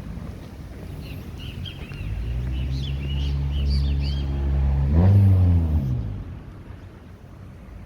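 A motor vehicle's engine hum grows louder, then drops in pitch as it passes close by about five seconds in and fades away. Small birds chirp several times during its approach.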